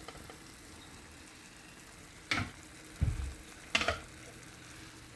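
Curry chicken in coconut milk sizzling softly in a pan, with a few short knocks and clatters from the pot and utensils in the middle.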